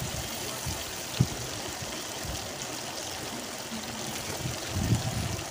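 Onions, green chillies and tomatoes sizzling steadily in hot oil in an open pressure cooker, with one light knock about a second in.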